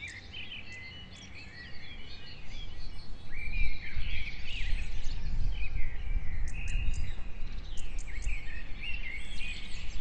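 Small birds chirping and singing in short rising and falling calls, over a low outdoor rumble that swells about two seconds in.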